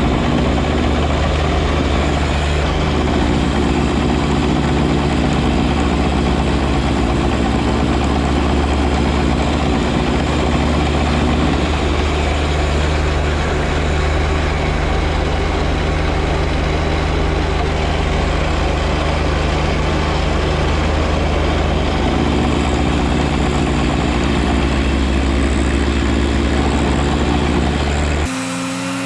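John Deere 1025R compact tractor's three-cylinder diesel engine running steadily at a constant speed. It cuts off abruptly near the end.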